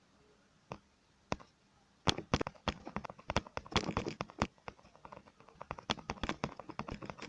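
Plastic Lego bricks being handled: a couple of single clicks, then from about two seconds in a rapid, irregular run of clicks and clattering.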